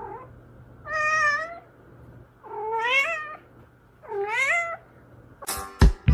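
Domestic cat meowing three times, each call drawn out and bending in pitch, spaced about a second and a half apart. Music comes in near the end.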